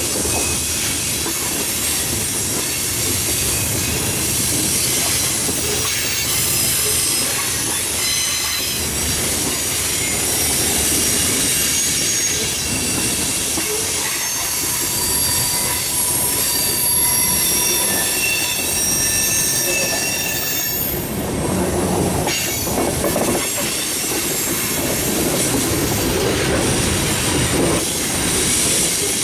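Freight train cars rolling past on a curve: a steady rumble and rattle of wheels on rail, with high wheel squeals that come and go. About 21 seconds in the squealing drops away and the low rumble grows.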